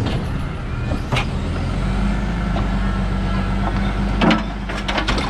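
Rear-loader garbage truck's diesel engine running steadily, with a sharp metallic knock about a second in and a quick run of clanks near the end.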